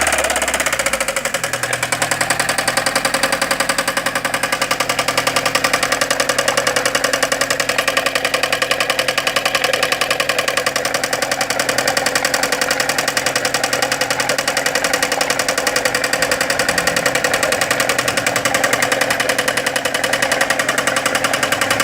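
Chevrolet Corsa engine settling to idle and idling steadily with a fast, regular ticking knock in time with the engine: the engine noise being diagnosed.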